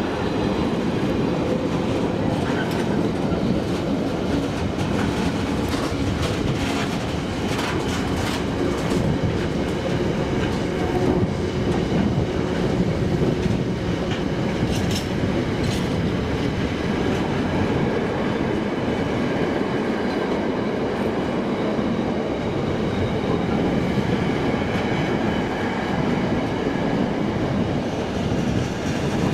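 A train running past on the rails: a steady rumble with wheels clattering over the track, and runs of sharp clicks about a quarter of the way in and again about halfway.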